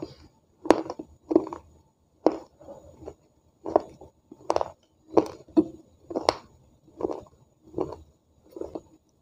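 A person chewing food with closed lips: a steady series of short smacking mouth sounds, a little more than one a second.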